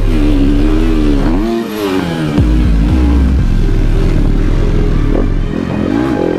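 Dirt bike engine revving up and down, over a music track with a heavy, steady bass line.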